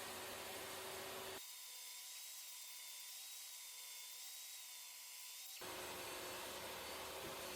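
Faint steady hiss. For about four seconds in the middle the lower part drops out, leaving only a thin high hiss with a faint wavering high whine.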